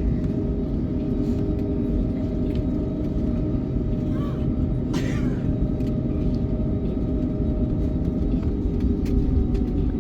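Airbus A321neo cabin noise: a steady engine and airflow rumble with a constant hum running through it.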